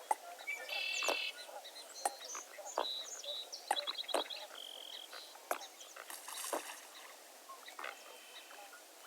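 Dawn chorus of birds: many short, overlapping calls, chirps and clicks, some with a stacked, buzzy tone.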